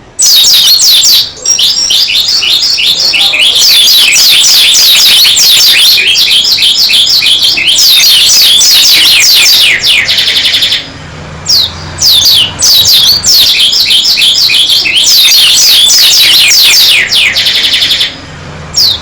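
A white-eye (pleci dakun) singing a long, fast, loud chattering song of rapid high falling notes, with two brief pauses.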